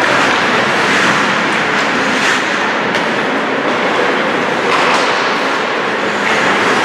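Ice hockey play on a rink: a steady scraping of skates on the ice with a few short stick and puck clacks.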